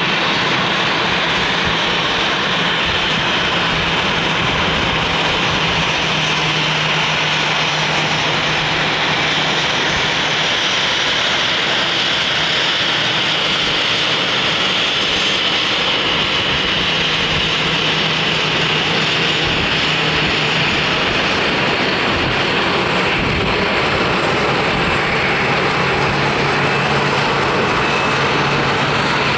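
Airliner engines running steadily at close range, a loud, even engine noise with a faint low hum that holds without a break.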